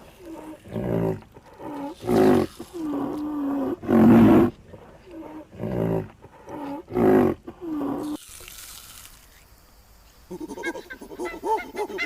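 A big cat giving a series of harsh roaring calls, roughly one a second. After a short lull near the end, a fast run of short, arching calls from another animal begins.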